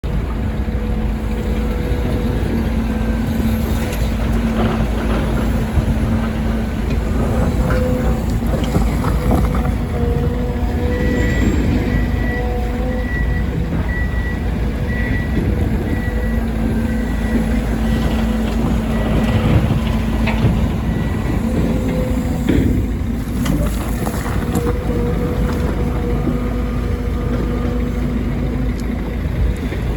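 Volvo EC300E excavator's diesel engine running steadily under load, with scattered knocks from the digging and loading. From about a third of the way in, a high warning beep repeats about twice a second for several seconds.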